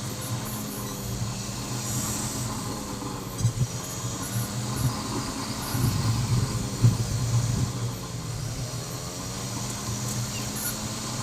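Motorcycle running steadily on the road, with road and wind noise and a few short bumps about a third and two-thirds of the way through.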